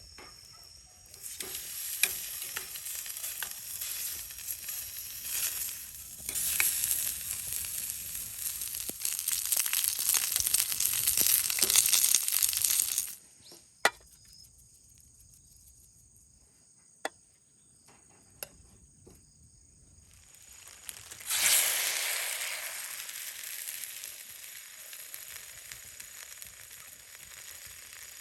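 Sizzling over a wood fire in a HANG OUT Flame Pit fire stand, in two long stretches. The second starts suddenly about twenty seconds in and slowly fades. Between them the fire is quieter, with a few sharp pops.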